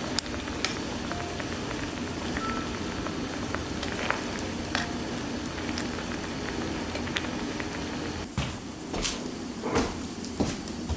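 Food cooking over a wood fire on a barbecue: a steady sizzling hiss with scattered crackles and pops, and a few louder knocks near the end.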